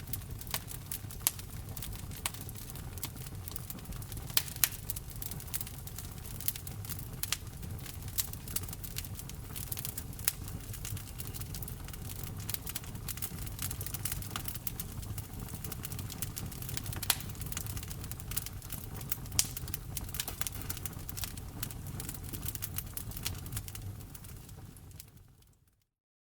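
Wood fire burning in a fireplace: a steady low rumble under constant crackling, with sharp pops every second or two. The sound fades out to silence near the end.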